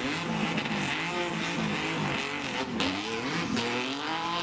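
A car engine revving, its pitch rising and falling several times as the car is driven hard, over a steady lower engine hum.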